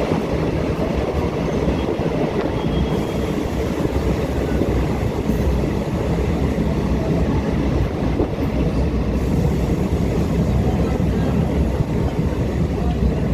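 Passenger train running along the track, giving a steady, loud noise of wheels and carriage on the rails.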